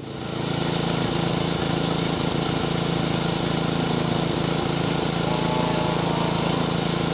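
Small engine-driven generator running steadily at constant speed, a continuous even hum with a hissy top. It fades in just after the start.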